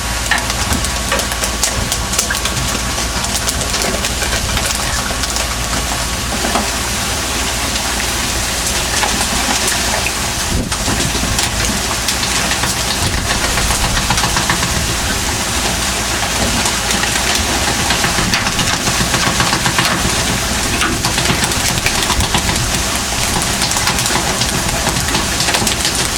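A fishing boat under way at sea: the engine runs steadily beneath a constant loud rush of water and wind.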